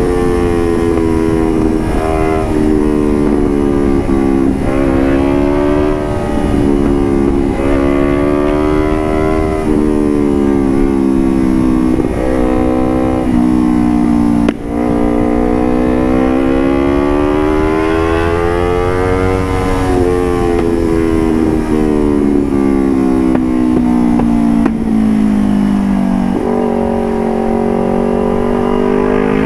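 Motorcycle engine running through an aftermarket carbon Puresound DX Generation AR1 exhaust, under way. Its pitch climbs and falls throughout, with several sudden drops as the revs fall away between pulls.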